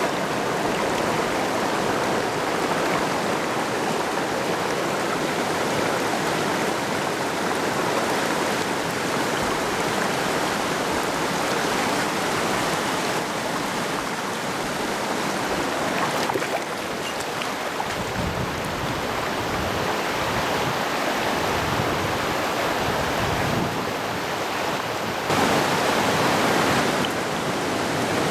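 Mountain stream rushing steadily, a continuous wash of water noise, with some low rumbling partway through and a step louder about 25 seconds in.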